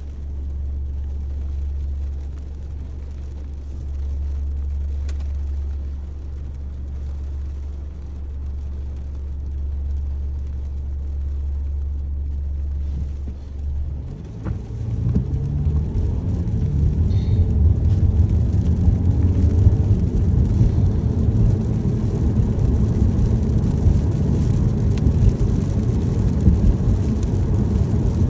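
Car being driven in the rain, heard from inside the cabin. A steady low road drone runs for about the first half, then gives way to a louder, rougher rumble.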